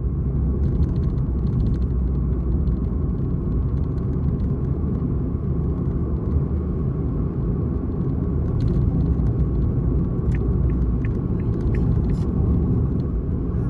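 Steady low road and engine rumble heard inside the cabin of a moving Suzuki Lapin kei car, with a short run of light, evenly spaced ticks about two-thirds of the way through.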